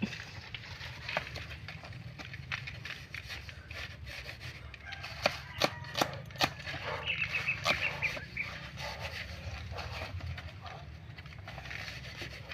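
Chicken clucking, with several sharp knocks about five to six and a half seconds in.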